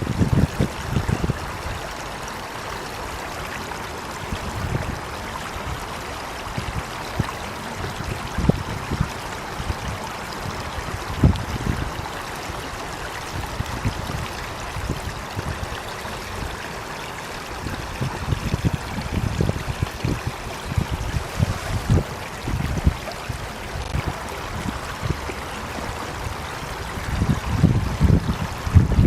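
Flowing water, a steady hiss with irregular low thuds that come thicker near the start and the end.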